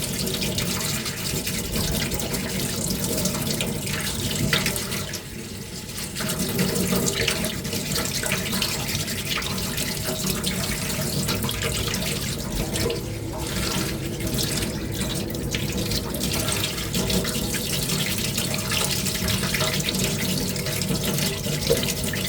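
Wet sanding underwater by hand: waterproof sandpaper rubbing on a small putty-coated armour ring, with water sloshing and splashing, briefly easing off about five seconds in.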